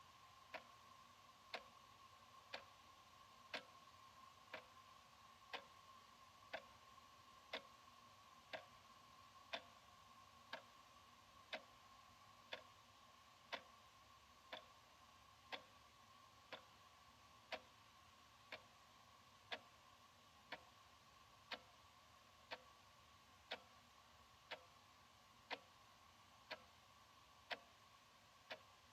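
Analog wall clock ticking steadily, one sharp tick a second, over a faint steady hum.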